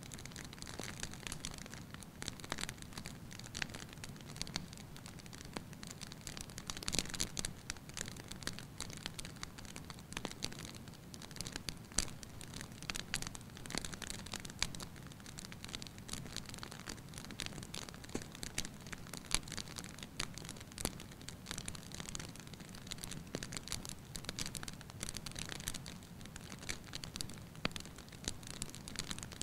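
Wood fire burning in a fireplace: a steady soft hiss and low rumble with irregular crackles and pops throughout, a few sharper pops about 7, 12 and 19 seconds in.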